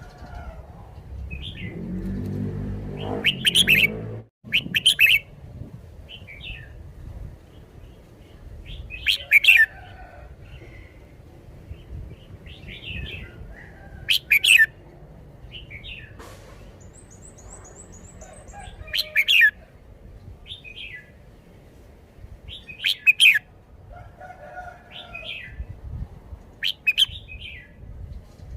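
Red-whiskered bulbul singing, loud short phrases repeated every four or five seconds. A low drone sounds briefly near the start, and another bird chirps faintly and high in the middle.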